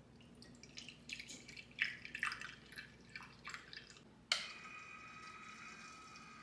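Water dripping and splashing in a series of quick irregular drops. About four seconds in, a tap is turned on and runs with a steady whine.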